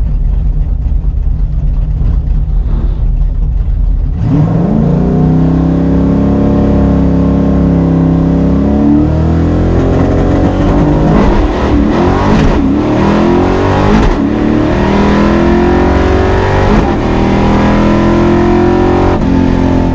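Drag race cars rumbling at the line, then launching about four seconds in and accelerating hard, the engine pitch climbing and dropping back with each gear change.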